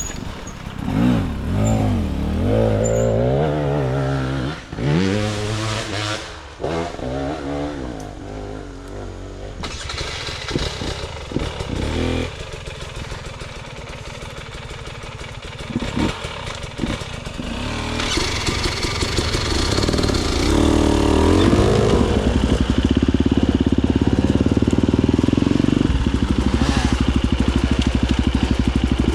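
Husqvarna FE250 enduro motorcycle's four-stroke single-cylinder engine, revved up and down in quick blips at first. It then sits lower and choppier with some knocks, climbs again, and runs steady and loud at higher revs for the last several seconds.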